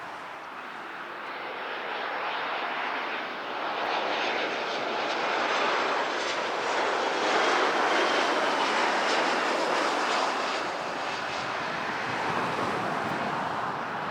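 Jet airliner passing by: engine noise swelling to a peak about halfway through, then easing off, with a faint high whine over the rumble.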